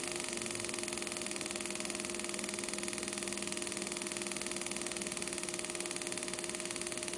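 Motorcycle engine idling steadily at about 1,100 to 1,500 rpm on a programmable CDI ignition.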